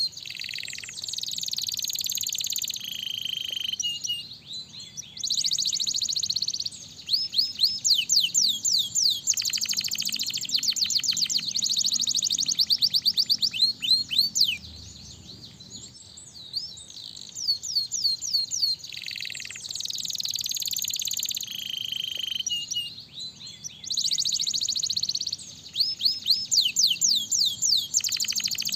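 Domestic canary singing a long, fast song of rapid trills, rolling repeated notes and swept whistles, with brief pauses between phrases.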